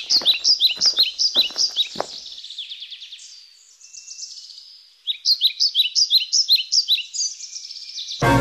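A bird chirping in quick repeated high notes, about four a second, in two bursts with a pause of a couple of seconds between them. A few sharp thuds sound under the first burst.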